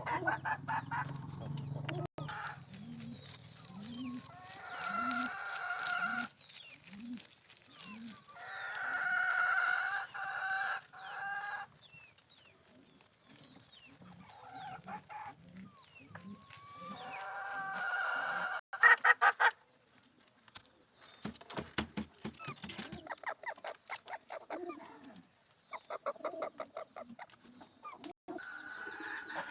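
Poultry on a bird farm: roosters crow three times, with long drawn-out calls, and quick runs of hen clucking follow in the second half. A low call repeats about twice a second under the crowing.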